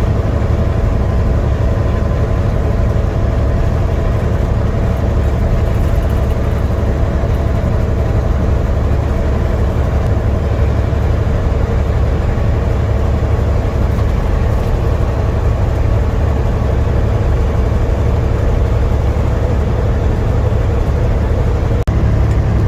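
Peterbilt semi truck's diesel engine droning steadily at highway cruising speed, with constant road noise.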